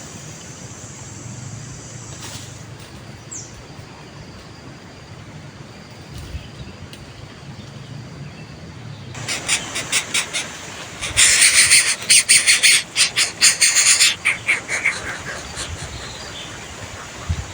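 Steady outdoor background, then about nine seconds in a bird starts a rapid, harsh, rasping chatter. The chatter grows loudest in the middle and tails off a few seconds before the end.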